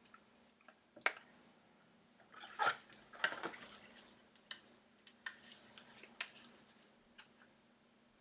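Trading card being handled with plastic card holders: scattered light clicks and short rustles, with a burst of handling about a third of the way in.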